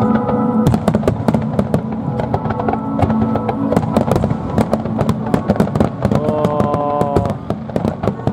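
A fireworks display with many shells bursting and crackling in rapid, irregular succession. Steady music with held chords sounds underneath.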